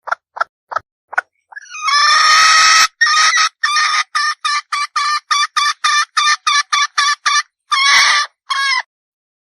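Red junglefowl hen cackling. A few short clucks lead to a long, loud squawk, then a fast run of clucks, a few each second, and a second squawk. It cuts off abruptly about a second before the end.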